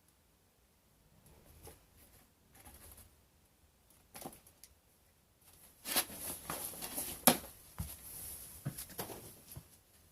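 Handling noises in a small room: faint rustling at first, then from about six seconds in a busier run of rustles and clicks, with one sharp knock a little after seven seconds.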